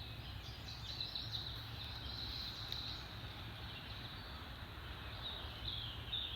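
Outdoor background of high-pitched chirping from insects and birds, steady throughout, over a low steady rumble.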